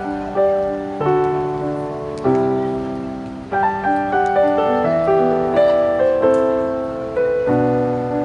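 Slow piano music: single notes and chords struck about once a second, each ringing and fading.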